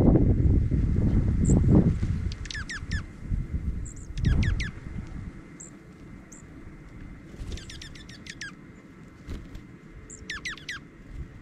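Small songbirds calling: several groups of three or four quick chirps that fall in pitch, with single thin high notes between them. A low rumble of wind on the microphone is loudest in the first two seconds and again about four seconds in.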